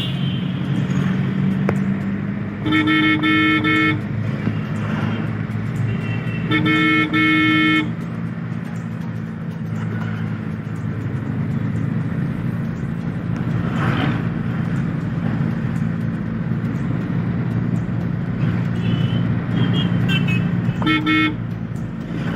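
Car horn sounded three times: two long honks of about a second each, a few seconds apart, and a short one near the end. Underneath runs the steady engine and road noise of a car driving.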